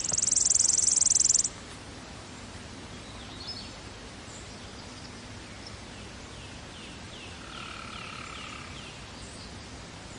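A loud, high buzzing trill for about a second and a half. Then faint steady background hiss with a few faint, quick chirps near the end.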